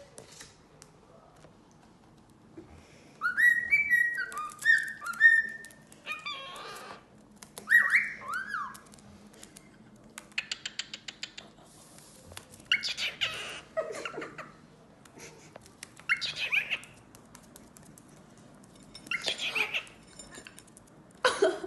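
Cockatiel whistling its song: a run of clear, gliding whistled notes, then a series of shorter, rougher chattering calls with quick clicks through the rest.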